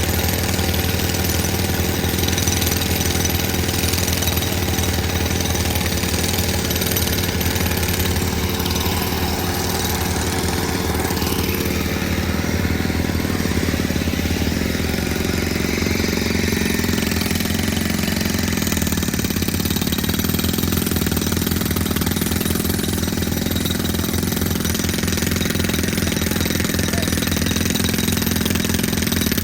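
An engine running steadily at constant speed with a rapid, even pulse.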